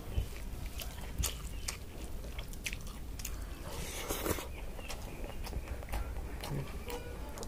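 Close-up eating sounds of rice and fried egg eaten by hand: chewing with scattered wet mouth clicks, and a brief louder noisy sound about four seconds in.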